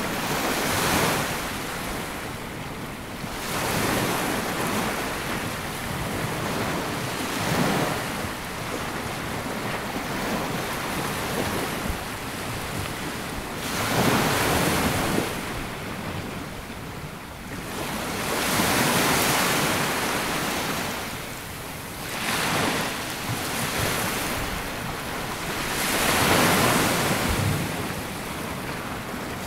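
Small sea waves breaking and washing up a sandy beach, a swell of surf every few seconds, with some wind on the microphone.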